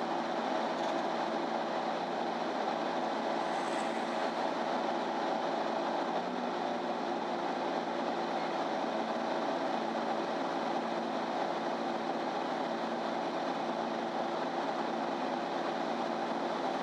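MAN Lion's City Ü intercity bus (NÜ 323) heard from inside the passenger cabin while driving at a steady speed. The engine and drivetrain run with several steady tones over an even road noise, with a slight shift in the low tone about six seconds in.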